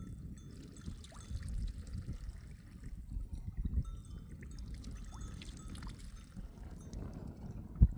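Water pouring and trickling, with a sharp thump just before the end.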